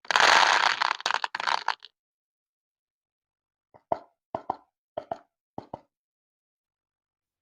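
Water splashing and pouring for about two seconds, then four pairs of small water plops evenly spaced about half a second apart.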